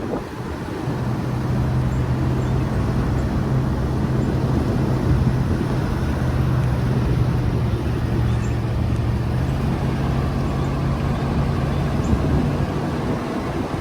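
A motor vehicle's engine running steadily with road and wind noise, its engine note shifting about nine and a half seconds in.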